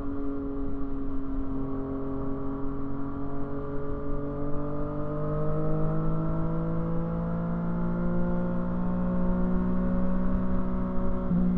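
Yamaha FZ-09's 847 cc inline-three engine running, its note steady at first and then climbing slowly in pitch as the revs build, with a short break in the note near the end.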